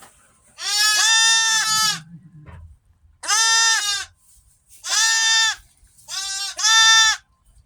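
Goat bleating about five times, each call steady in pitch and lasting up to about a second and a half, with short pauses between them.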